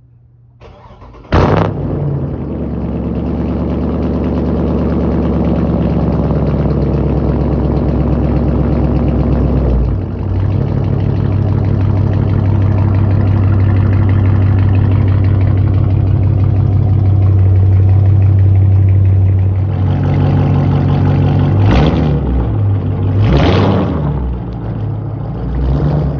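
Straight-piped Dodge 5.7-litre HEMI V8 starting up about a second in with a loud bark, then running at a raised idle that steps down and steadies about ten seconds later. Two quick throttle blips come near the end, and a smaller one right at the end.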